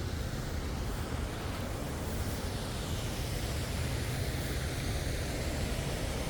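Steady rushing noise with no distinct events, heavy at the low end.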